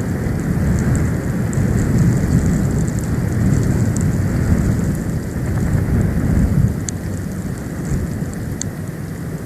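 Storm wind buffeting an outdoor nest-cam microphone in a snowstorm: a loud, gusting low rumble that swells and eases, with a couple of faint ticks near the end.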